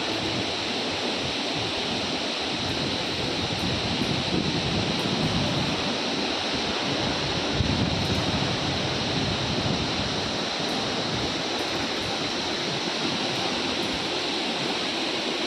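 Nuranang Falls, a large waterfall, plunging with a steady rush of falling water.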